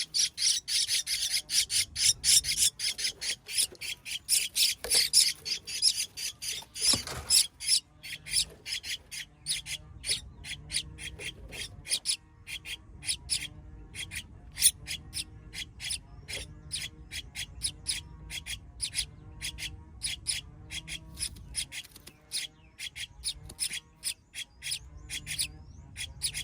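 A nestling bird chirping over and over in short, sharp, high cheeps, about two or three a second. For the first several seconds a dense scratchy rustling sits over the chirps.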